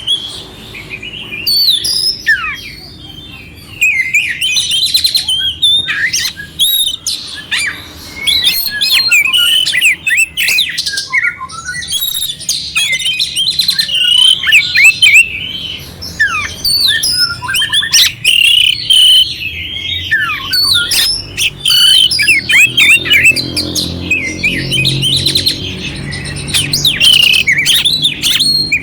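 Oriental magpie-robin (kacer) singing continuously: a loud, varied stream of quick whistles, rising and falling glides and coarse, scratchy filler notes.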